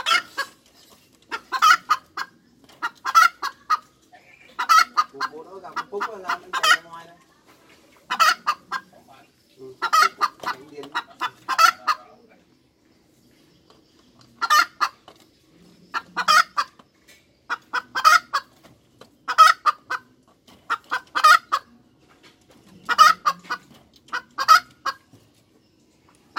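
Hen cackling: short, sharp clucks in repeated groups of three to five, with a brief pause about halfway through.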